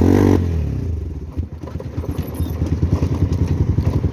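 Motorcycle engine running. It drops from higher revs to a low, even putter about half a second in.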